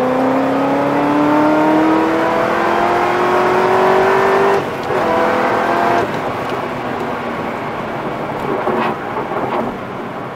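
Chevrolet Corvette ZR1's supercharged V8 heard from inside the cabin under hard acceleration, its note climbing steadily. About four and a half seconds in it shifts up, pulls briefly at a lower pitch, then the throttle comes off about six seconds in and the car runs on more quietly.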